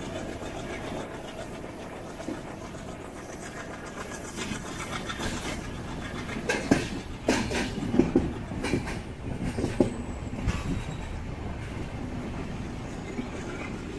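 Train running on the rails: a steady rumble with its wheels clattering, and a run of loud clacks from about halfway through.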